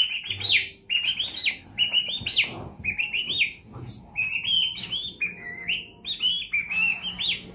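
A pet parrot chirping in short runs of quick, high, rising chirps, one run about every second.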